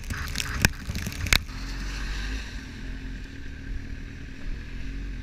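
Motorcycle engine idling steadily, with two sharp knocks in the first second and a half.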